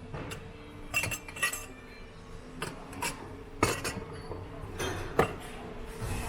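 Drinking glasses and dishes clinking and knocking together as they are shifted around in a bin, in a string of irregular separate clinks with short rings, the loudest about three and a half and five seconds in.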